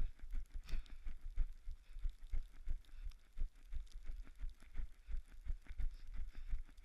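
Footfalls in snow at a steady running pace, about three a second, each one a dull low thump.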